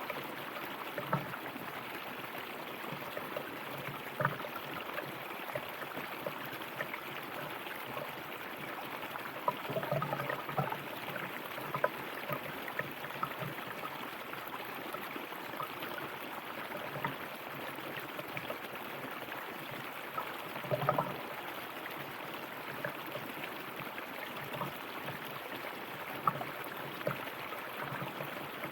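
River water flowing steadily, with small gurgles and splashes throughout and a few louder splashes about ten and twenty seconds in.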